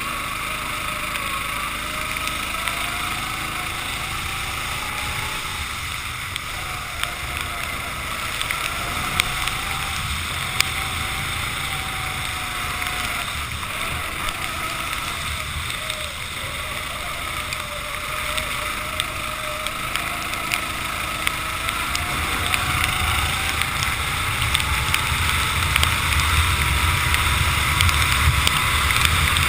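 Racing kart engine heard onboard, its pitch rising and falling with the throttle, over a steady wash of wind and water spray on a wet track. Over the last several seconds the engine note climbs steadily and grows louder.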